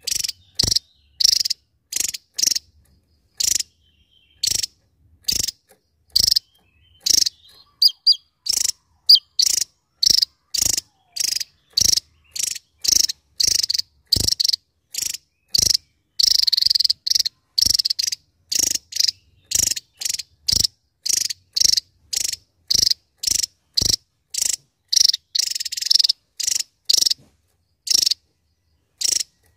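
Javan tesia singing: short high-pitched notes repeated rapidly, about two a second, with a couple of brief pauses.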